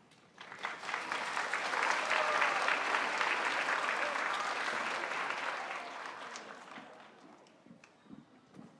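Audience of students applauding, swelling over the first couple of seconds and then slowly dying away.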